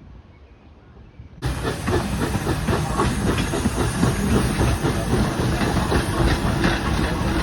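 Steam train heard close, with a loud steady hiss of steam and many short clicks over it; it starts abruptly about a second and a half in after faint background sound.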